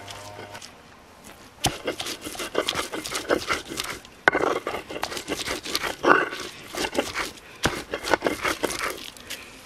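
A busy run of sharp clicks, knocks and crinkling rustles, as of things being handled, starting about one and a half seconds in and tailing off near the end.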